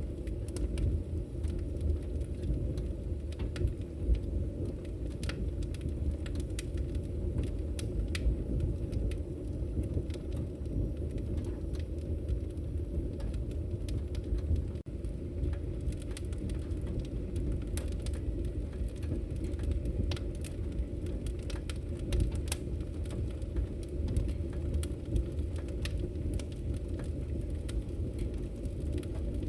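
Campfire burning: a steady low rumble of flames with sharp crackles and pops of burning wood scattered irregularly throughout.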